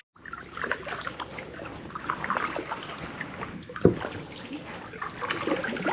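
Water trickling and dripping from a kayak paddle as it is stroked through calm water, with a single dull knock about four seconds in.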